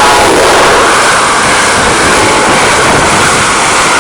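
An Amtrak Northeast Regional train, led by an ACS-64 electric locomotive, passing close by at high speed: a loud, steady rush of wheels on rail and air. A falling tone trails off at the very start.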